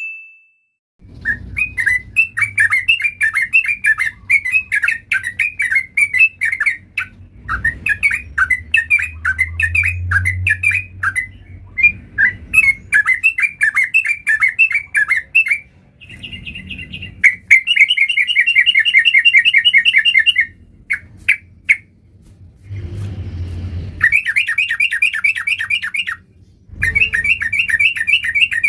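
Yellow-vented bulbul singing in long runs of rapid, bubbly chattering notes, several seconds at a time with short pauses between the runs.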